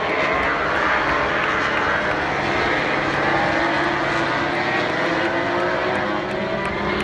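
A pack of MotoGP racing motorcycles on the opening lap, many engines running hard at once. Their overlapping pitches slide up and down steadily as the riders accelerate, shift and brake.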